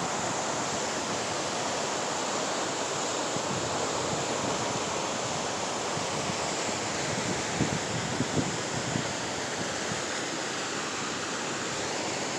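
Waterfall and creek water rushing in a steady roar, with a few soft low thumps a little past the middle.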